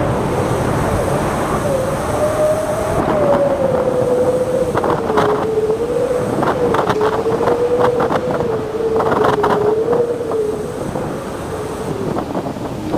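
Strong wind whistling: a single wavering tone that slowly sags in pitch over a steady rush of gusts. Brief clattering comes several times in the middle.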